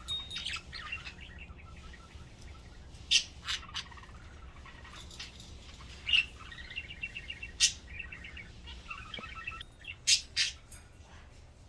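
Pet budgerigars chirping and warbling in steady chatter, broken by several sharp, loud chirps.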